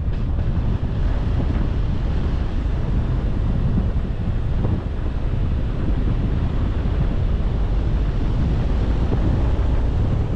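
Steady, loud wind rumble on the microphone of a car-mounted camera, mixed with the noise of the moving car.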